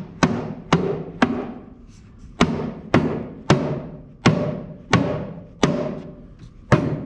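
Mallet tapping a quarter-inch cabinet back panel down into its dado grooves: about ten sharp knocks, mostly half a second to a second apart, each with a short ringing from the panel. The panel is a tight fit, possibly from a little glue in the dado.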